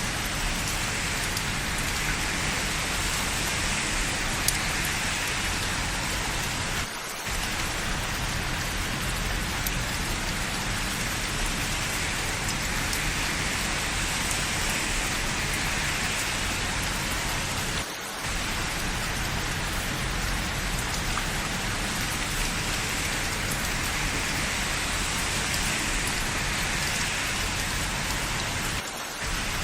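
Steady rain falling on hard surfaces, an even hiss of drops with no let-up. The level dips briefly three times, about eleven seconds apart.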